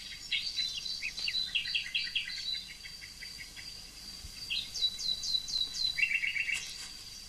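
Small birds chirping in quick runs of short, high notes, with a faint steady high tone underneath.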